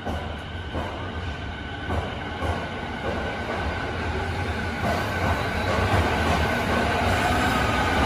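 Electric commuter train pulling out of an underground station platform and speeding up. A low rumble and a steady electric motor whine grow louder throughout, with a few wheel clacks over the rail joints in the first seconds.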